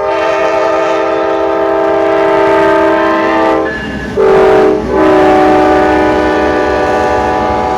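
Amtrak P42 diesel locomotive's multi-chime air horn sounding a long blast, a short blast a little past the middle (the loudest), then another long blast, over the rumble of the passing train.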